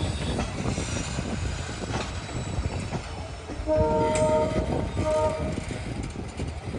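A WDP4B diesel locomotive's multi-tone horn sounds twice, a longer blast about four seconds in and a short one just after, over the low rumble of the moving train.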